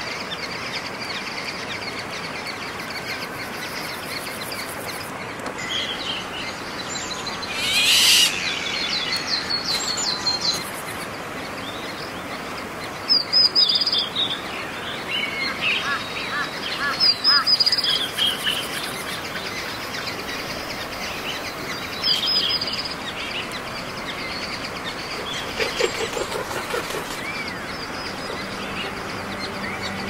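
Birds chirping and calling in short, high bursts scattered through a steady background hiss.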